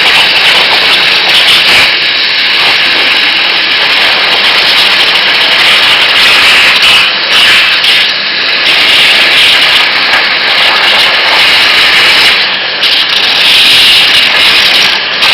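CNC waterjet cutting stainless steel sheet: the high-pressure jet gives a loud, steady hissing rush, with a few brief dips.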